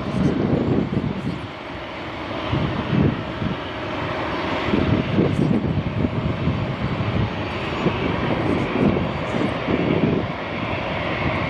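Jet engines of a landing Airbus airliner making a continuous roar, with a low rumble that rises and falls every second or two.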